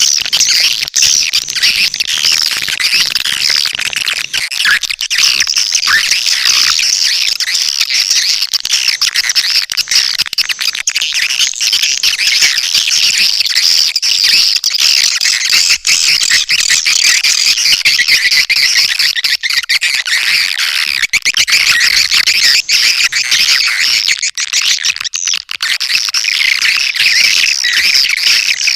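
Swiftlet calling sound (suara panggil walet): a dense, unbroken chatter of swiftlet twittering and chirps, the kind of lure track played to draw swiftlets into a nesting house.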